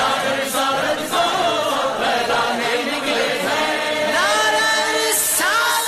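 Vocal chant sung in chorus, the anthem carrying on without clear words. Upward gliding notes come about four and five and a half seconds in.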